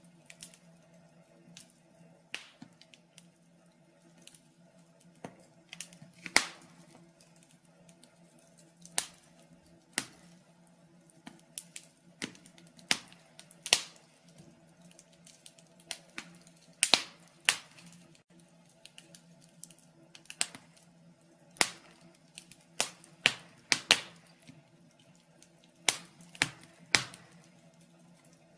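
Wood fire crackling in a fireplace: irregular sharp pops and snaps at uneven intervals, some much louder than others, over a faint steady hum.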